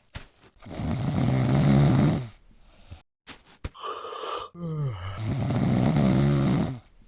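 Snoring: two long snores, each lasting about two seconds, with a shorter breath drawn in between them.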